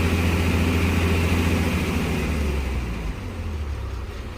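Engine of a heavy vehicle climbing the hill, a steady low hum that fades away from about halfway through.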